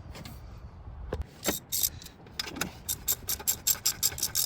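Hand ratchet clicking rapidly, several clicks a second, as a nut on an exhaust manifold is run down. A few single clicks come first.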